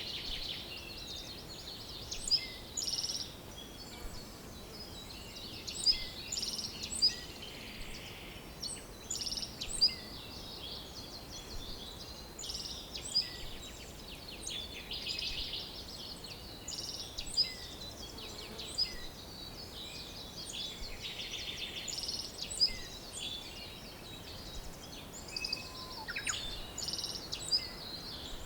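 Several songbirds chirping and singing, their short calls and rapid trills overlapping throughout, over a faint steady background hiss.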